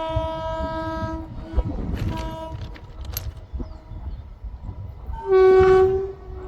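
Indian Railways train horn blowing three times: a blast of about a second at the start, a short toot about two seconds in, and the loudest blast near the end, over the low rumble of a train running on the track.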